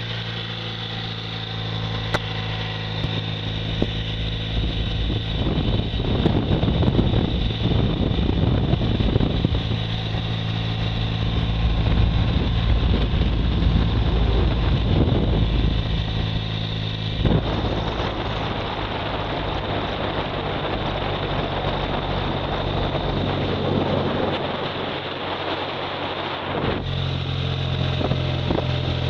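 Motorcycle engine running at a steady speed, with heavy wind buffeting the microphone. The sound changes abruptly twice, about two-thirds of the way through and again near the end.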